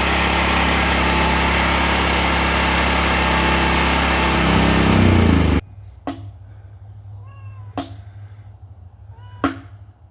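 Portable generator engine running steadily, then cut off abruptly about halfway through. After it, three sharp chops come about a second and a half to two seconds apart, an axe splitting firewood, with faint high chirping calls between them.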